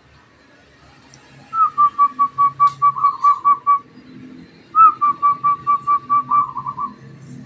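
Zebra dove (perkutut) cooing: two phrases of rapid, short, pure notes at one pitch, about five a second, each phrase opening on a slightly higher note.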